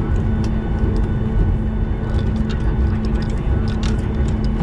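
Boeing 737 cabin noise from the jet engines: a steady rumble with a constant low hum, and scattered light clicks in the second half.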